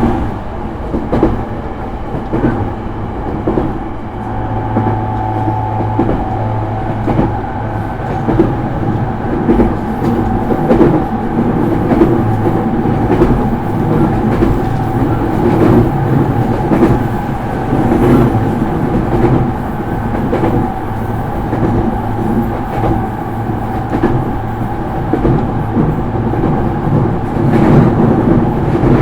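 Running sound inside a JR East E231 series electric motor car at speed: a steady rumble of running with a steady tone from the traction equipment, and the wheels clicking over rail joints every second or two.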